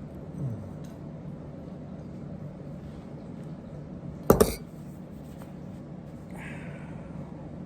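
A brief, sharp clatter of hard objects knocking together, two quick knocks about four seconds in, over a steady low hum.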